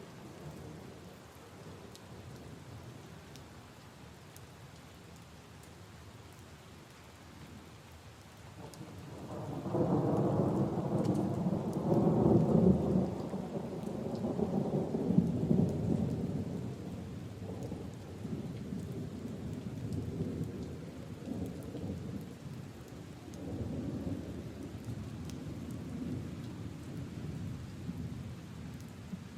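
Steady rain falling on leaves and puddles, with scattered individual drop ticks. About a third of the way in a long roll of thunder builds to a loud low rumble for several seconds, then goes on rumbling more softly in swells.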